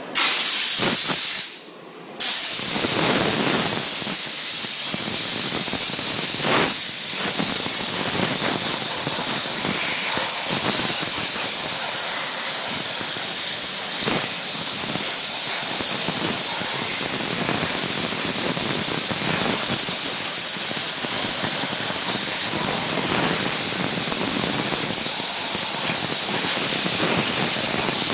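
Steam cleaner's wand jetting pressurised steam in a loud, steady hiss, cut off briefly about a second and a half in, then held continuously.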